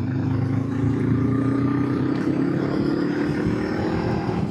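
Honda CB500X's parallel-twin engine pulling under acceleration, its pitch rising steadily.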